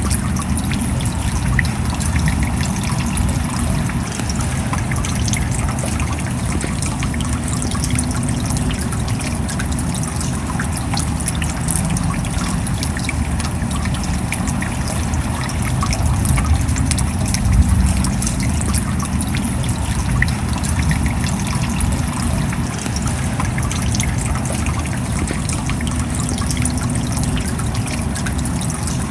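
Steady rain: a dense patter of drops over an even rush of water, with a deeper rumble underneath.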